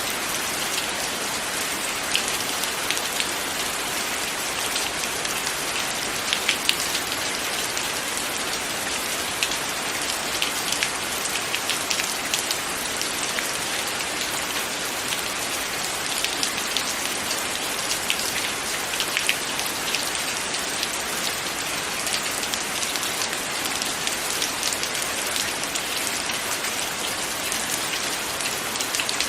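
Steady rain falling: an even hiss with scattered louder drop taps.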